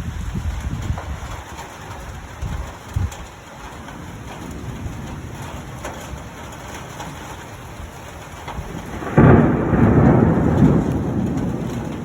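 Rain falling steadily during a thunderstorm. About nine seconds in, a sudden loud thunderclap breaks and rumbles on, fading over the next few seconds.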